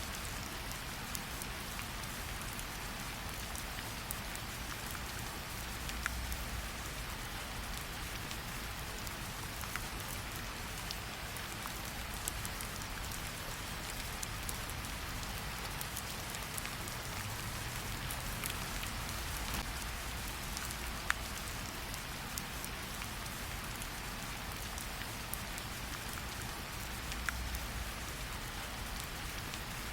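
Steady rain falling, with scattered small crackles and pops of a campfire mixed in.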